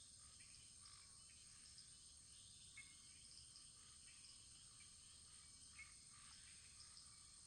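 Faint crackling of a wood fire in a fireplace: a few small pops over a steady high hiss.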